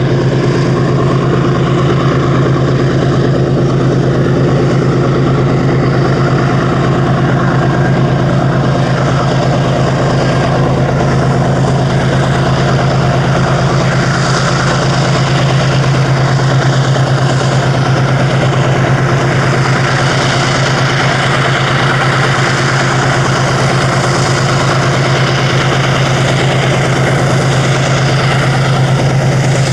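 Steady engine hum at one constant low pitch with overtones, unchanged throughout.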